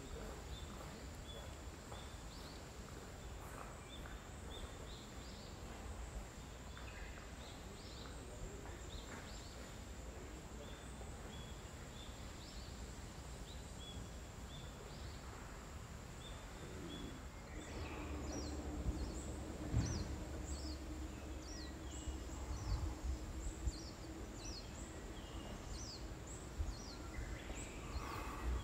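Outdoor ambience of small birds calling with short repeated chirps, over a steady high-pitched whine. The chirps come thicker and faster in the second half. From about two-thirds of the way in, a low steady hum and rumble join.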